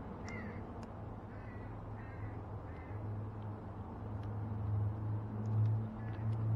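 A bird calling four times in quick succession over a low steady hum. The hum grows louder about halfway through.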